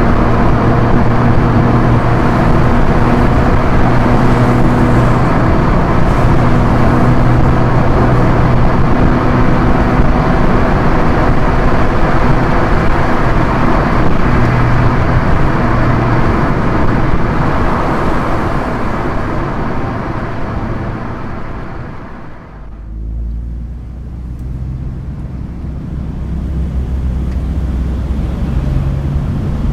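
2013 Proton Inspira 1.8's four-cylinder MIVEC engine running with tyre and road noise at a steady cruise. The car then slows, and about 22 seconds in it drops to a low idle. Near the end the engine starts revving up for a hard launch from a traffic light.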